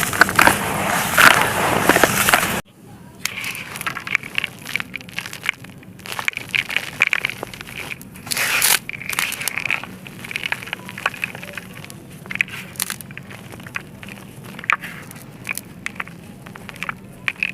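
Dry, brittle chunks crumbling and being crushed, a dense loud crackle that cuts off abruptly about two and a half seconds in. After that comes a quieter, ongoing crumbling with scattered crackles and clicks.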